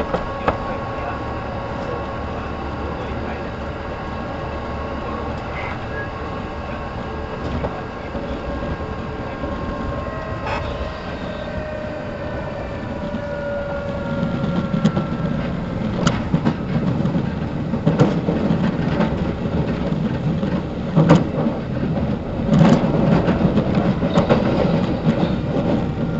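Inside a Kintetsu 1810 series electric train under way: a steady rumble of motors, gears and wheels with a hum that sinks slightly in pitch. From about halfway the rumble grows louder, with several sharp clacks of the wheels on the track.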